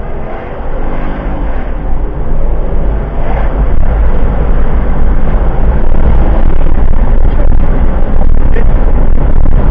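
A car driving, with a deep road and engine rumble that grows louder over the first few seconds and then holds steady.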